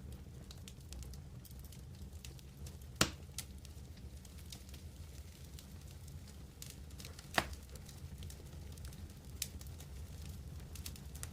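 Wood campfire crackling, with scattered small pops and two louder snaps, about three and seven seconds in, over a low steady rumble.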